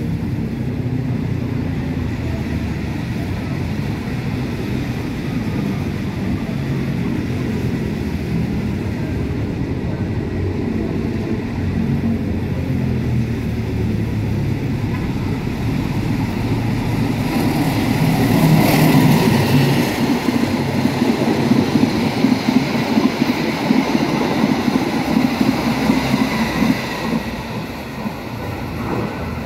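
Long-distance diesel-hauled train approaching and passing straight through a station without stopping. A steady low rumble builds and is loudest about two-thirds of the way through as the locomotive passes, followed by a rapid rhythmic clatter of the carriages' wheels that drops off near the end as the train moves away.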